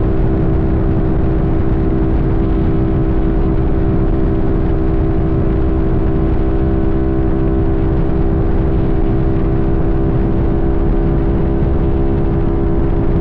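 Sportbike engine running at a steady speed while cruising, one constant tone with no revving or gear changes, over a low rushing noise.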